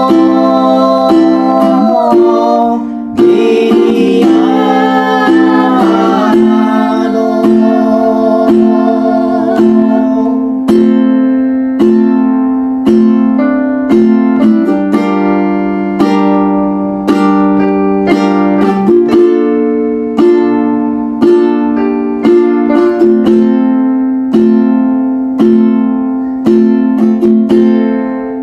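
Acoustic plucked-string music, guitar-like, playing a song. A wavering melody line is heard in the first few seconds, then evenly paced plucked notes with chords beneath.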